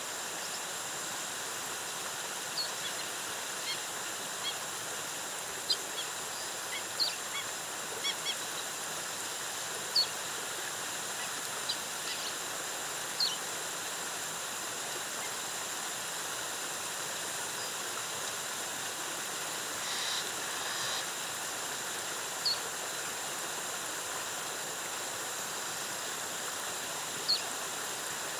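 Waterfall rushing steadily, with short bird chirps scattered over it, about a dozen in all.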